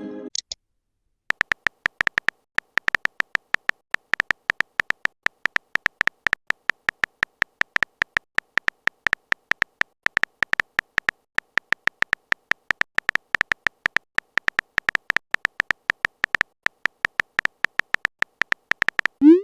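Rapid, uneven run of short, high-pitched beeping ticks: a text-typing sound effect for chat messages. It starts about a second in and stops just before the end.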